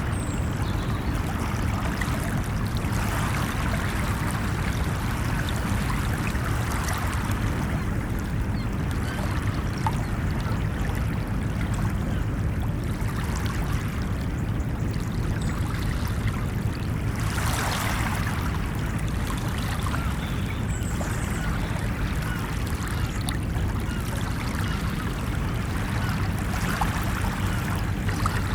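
Ocean surf washing onto a beach: a continuous low rumble of water, with waves swelling and breaking now and then, one breaking louder a little past the middle.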